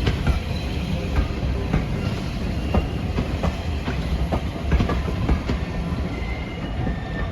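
Passenger train rolling past at low speed, its wheels clicking irregularly over rail joints over a steady low rumble, with faint thin wheel squeal now and then.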